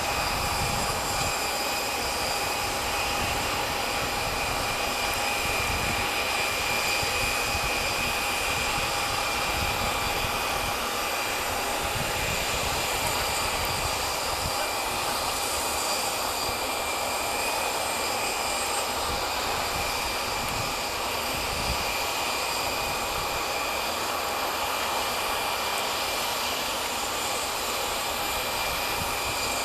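Boeing 737-700 jet engines running steadily: a broad rush with a high, steady whine over it.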